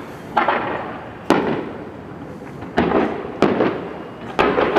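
Aerial fireworks shells bursting: five sharp bangs at uneven intervals, each followed by a rumble that dies away over about half a second.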